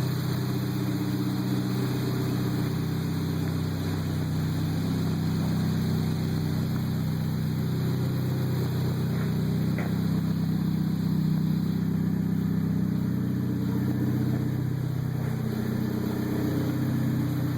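Buick Regal GS engine idling steadily, its low exhaust note even throughout.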